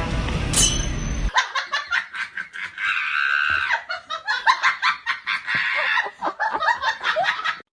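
Background music that stops about a second in, then a person's high-pitched laughter in quick, breathy bursts.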